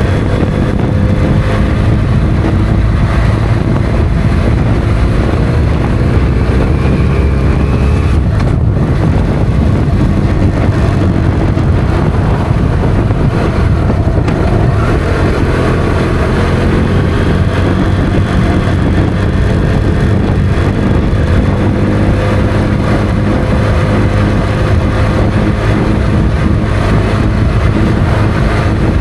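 Motorcycle engine running steadily on the move, its pitch slowly rising and falling with the throttle, with a brief dip about eight and a half seconds in.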